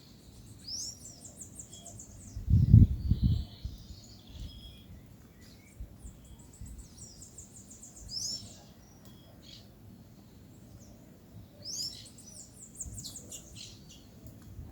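Small songbirds calling: three high, quick phrases, each opening with a rising note and running into a fast series of notes, with scattered short chirps between them. A low rumbling thump lasting about a second, starting about two and a half seconds in, is the loudest sound.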